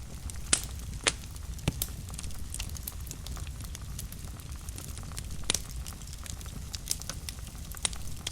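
Wood fire burning in a fireplace: a steady low rumble of the flames with frequent irregular crackles and a handful of louder sharp pops.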